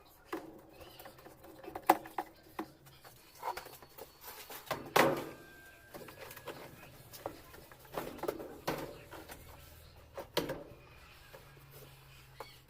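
Irregular clicks and knocks of parts and tools being handled while reassembling a Consul Facilite washing machine's mechanism. The loudest knock comes about five seconds in.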